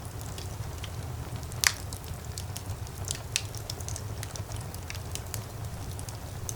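Fire burning in a fireplace: a steady low rumble of flames with scattered crackles, and one sharp, loud pop nearly two seconds in.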